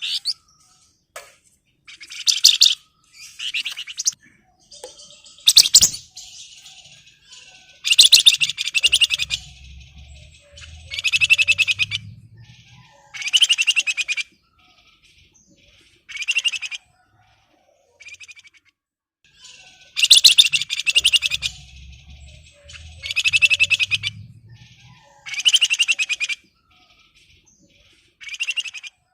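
Male wergan Jawa (flamboyan, Javan fulvetta) in breeding condition singing loud, rapid, chattering high phrases, each about a second long, repeated every two to three seconds. This is the agitated, dense song that keepers play as a lure to draw other flamboyan into answering. A low rumble runs under two of the longer phrases.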